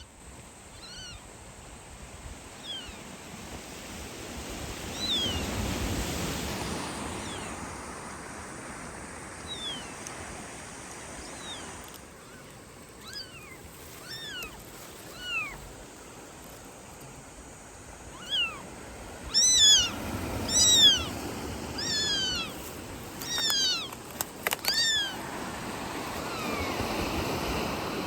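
Calico kitten meowing over and over: short, high cries that fall in pitch. They are sparse at first and grow louder and more frequent in the second half, with a few sharp clicks near the end.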